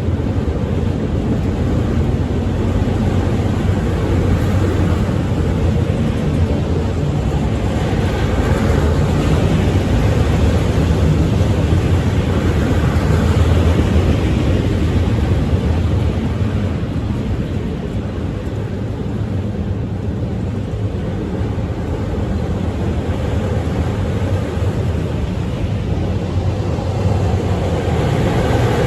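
Freight train of auto rack cars rolling past: a steady low rumble of wheels on the rails.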